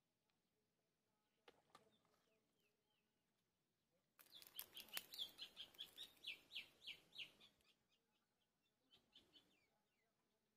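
Bird calls over near silence: faint scattered chirps, then about four seconds in a rapid run of short falling chirps, roughly five a second, lasting about three seconds over a rustling hiss, and a brief smaller flurry near the end.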